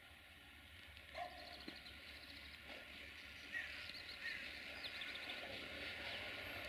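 Faint outdoor ambience with birds chirping, over a low rumble and hiss that slowly grow louder as a train draws near.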